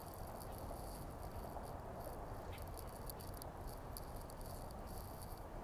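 Faint outdoor ambience: a low, steady background rumble with light, irregular high ticking and rustling.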